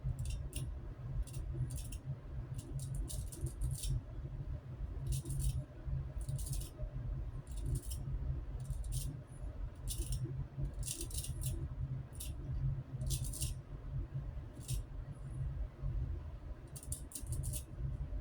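Razor scraping across lathered stubble in short strokes, a scratchy rasp repeated irregularly with brief pauses, over a steady low hum.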